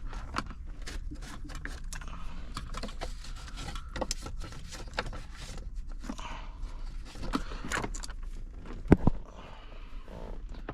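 Clicks, scrapes and light rattles of hands handling and cleaning parts in a car dashboard's open radio bay, with one louder knock about nine seconds in.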